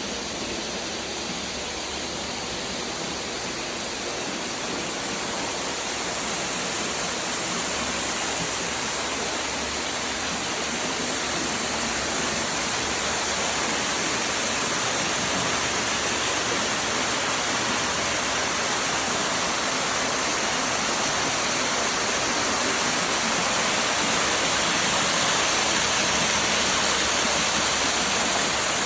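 Steady rushing noise of running water, growing slowly louder.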